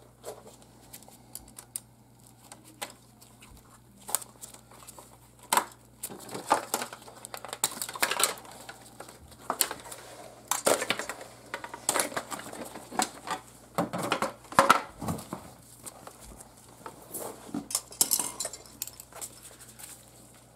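Refrigerator control-module parts being handled: irregular clicks and rattles of small plastic and metal pieces as the old temperature and defrost controls are unclipped and swapped, sparse at first and growing busier from about six seconds in.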